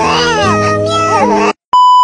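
Background music with a cat meowing over it, cutting off about three quarters of the way in, then a loud steady beep.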